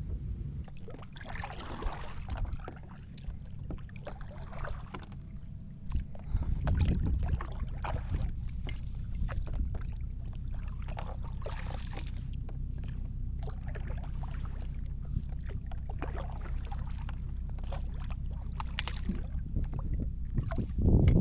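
Kayak paddle strokes splashing and dripping in the water every few seconds, over a steady low rumble.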